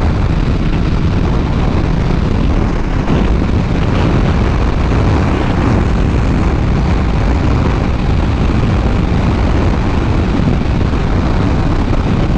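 Steady rush of wind on the microphone over a motorcycle's running engine, riding at road speed, with no distinct impact or change.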